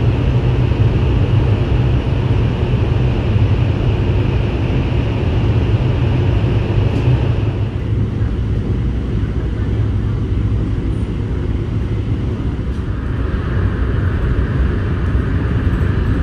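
Cabin noise inside a KTX-Cheongryong high-speed train under way, heard in the vestibule: a steady low rumble with a hiss above it that drops lower in pitch partway through.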